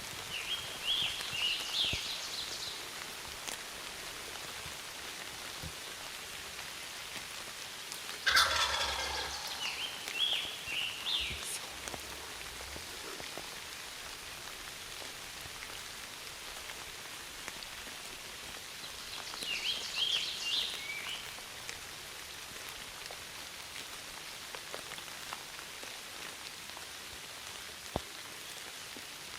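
Wild turkey gobbler gobbling several times at close range, the loudest gobble about eight seconds in, over steady rain.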